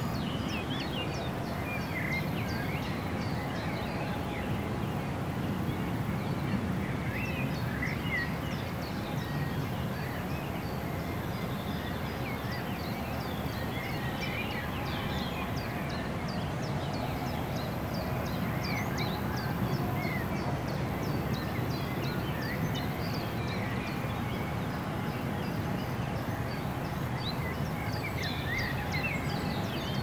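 Songbirds calling and singing, many short chirps overlapping throughout, over a steady low rumble and a continuous high-pitched hiss that drops out briefly now and then.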